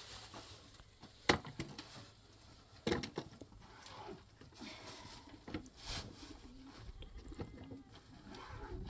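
A few sharp knocks or clicks, about a second in, three seconds in and six seconds in, over faint rustling and handling noise.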